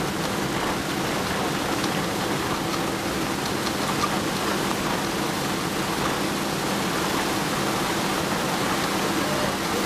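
Steady rushing cabin noise of a Boeing 777-300 airliner heard from inside the passenger cabin: engine and airflow noise, with a faint low hum under it, as the aircraft rolls along the runway after landing.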